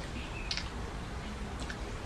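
Mouth sounds of people eating rice and curry by hand: scattered wet smacks and chewing clicks, one of the sharpest about half a second in.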